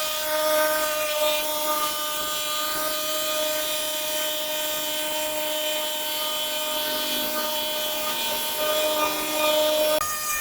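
A power tool's motor spinning up and then running at a steady high speed, with a slight drop in pitch near the end as it takes some load.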